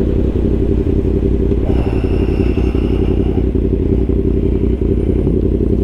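Yamaha R1 sport bike's inline-four engine running steadily under way, an even rumble with no revving up or down.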